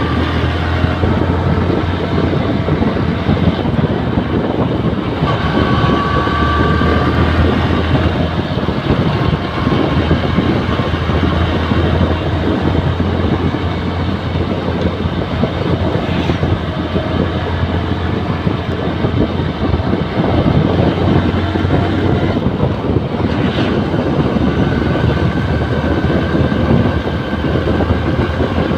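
Yamaha New Megapro motorcycle engine running steadily while riding, with wind and road noise over it; a faint rising whine comes in twice as it picks up speed.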